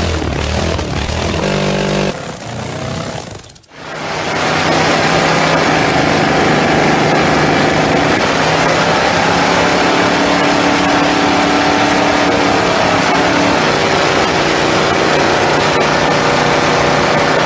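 Hot rod engine held at high revs during a burnout, its rear tyres spinning, a steady loud run from about four seconds in to the end. Before that, a different engine runs briefly and is cut off.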